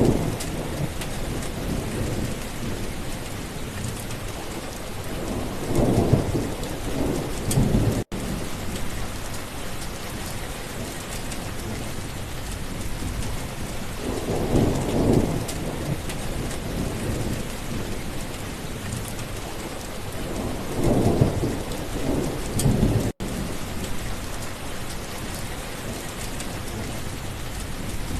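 Steady heavy rain with thunder rolling in as low rumbles three times, about six, fifteen and twenty-one seconds in. The sound cuts out for an instant twice.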